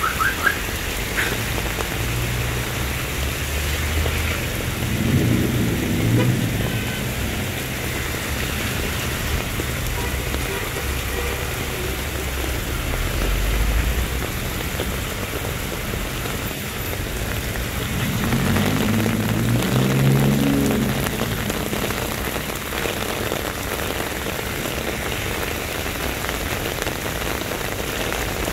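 Heavy rain pouring down onto a flooded street, a steady loud hiss. Twice a vehicle's engine rises above it as it passes, about five seconds in and again around eighteen to twenty-one seconds.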